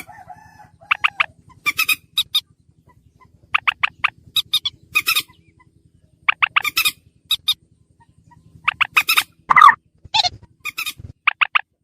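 Common moorhen calling: short, harsh notes in quick clusters of two to four, repeated every second or so, with one louder, lower call about two-thirds of the way through. A faint low hum runs underneath and stops shortly before the end.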